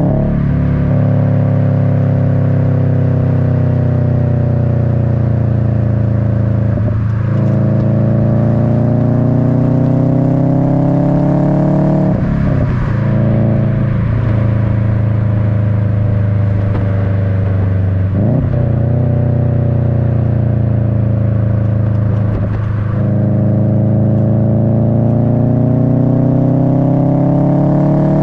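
Subaru WRX's turbocharged EJ255 flat-four engine running through an Invidia N1 cat-back exhaust, heard close to the tailpipes. Its note sinks and climbs with the throttle and breaks off briefly every few seconds at gear changes.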